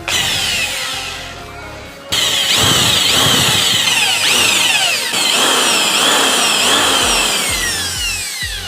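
Handheld power tool, drill-like, running and working material; it starts loud about two seconds in, with its pitch repeatedly sagging and recovering as it bites.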